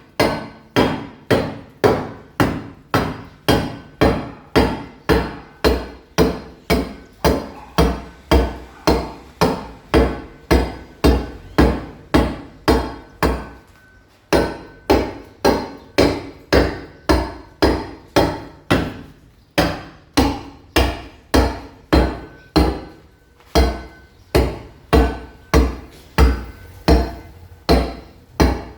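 A mason's hammer striking a masonry wall at about two blows a second, chipping the surface to roughen it for laying ceramic tiles. The rhythm breaks off briefly a few times midway.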